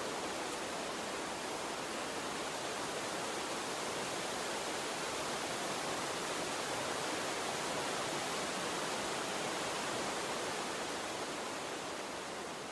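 Gentle stream of water running, a steady even rushing hiss, easing slightly in level near the end.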